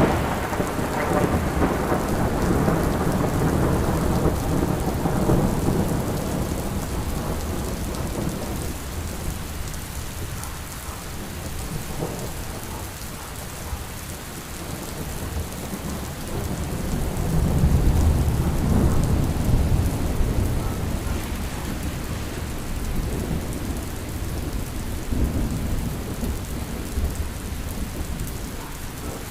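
Steady rain with rolling thunder: a low rumble dies away over the first several seconds, and another swells up about halfway through and fades.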